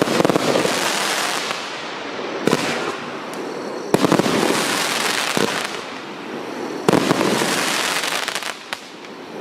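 Consumer firework compound cake firing: about six sharp shots one and a half to two and a half seconds apart, each followed by a long hissing crackle as the shells burst.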